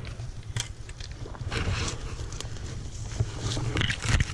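Footsteps and rustling of a person pushing through dense stinging nettle undergrowth, in an uneven run of crunches and brushes.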